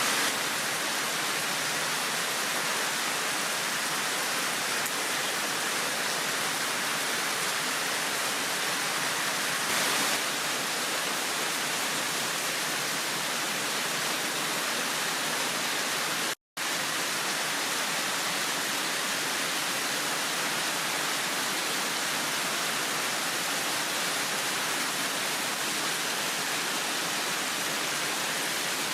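Heavy downpour: a steady, dense hiss of rain. It cuts out completely for a split second about two-thirds of the way through.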